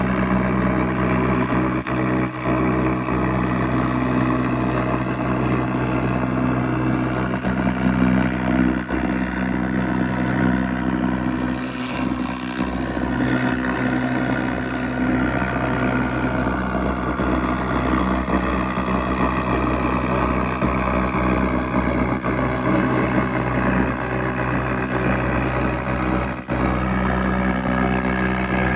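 SFX 2000 laser rust remover running, giving a steady, even machine hum with a constant low drone.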